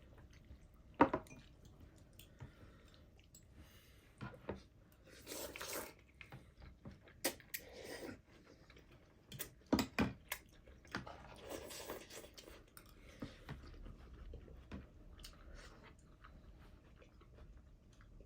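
Close-up eating of thukpa noodle soup: chewing and biting, with scattered sharp clicks, two louder ones about a second in and near ten seconds, and two longer noisy stretches in between.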